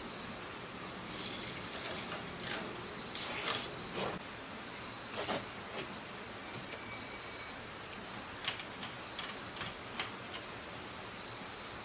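Scattered light clicks and knocks of hand work, a dozen or so irregular taps, over a steady high-pitched hiss.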